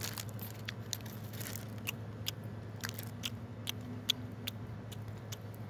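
A man biting into and chewing a cinnamon-sugar churro close to the microphone: a run of small, sharp crunches and wet mouth clicks, over a steady low hum.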